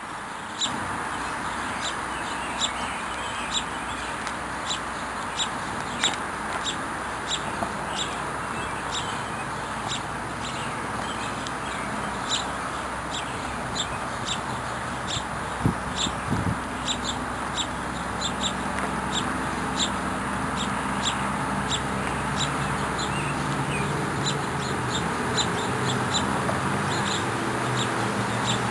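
Birds at a feeder: a steady run of short, high chirps over a background hiss, with lower clucking calls, like a hen's, coming in over the second half.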